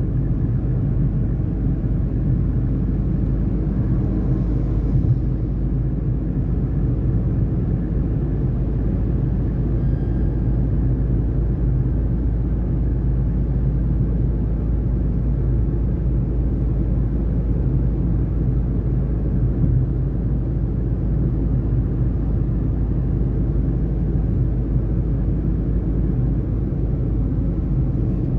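Tata Tiago NRG's three-cylinder petrol engine and tyre noise while driving at a steady pace, a steady low rumble.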